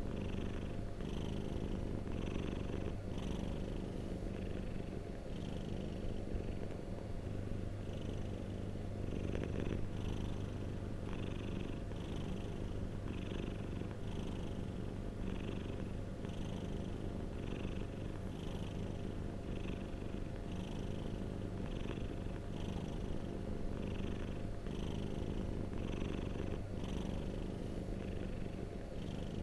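Domestic cat purring steadily: a continuous low rumble with a breathy swell about once a second.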